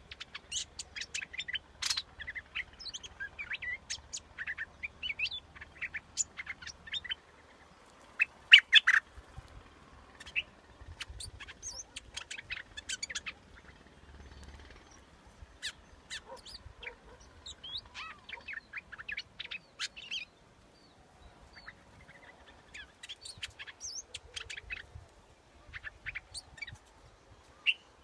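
Bulbul (the 'dok taeng' bulbul) singing a string of short, quick chirping phrases with brief pauses between them, loudest about eight to nine seconds in. It is played as a decoy call to lure other birds.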